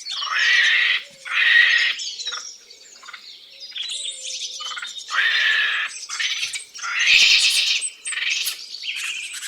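Birds calling: a run of loud, harsh squawking calls, each under a second long, with quieter chirps and whistles between them.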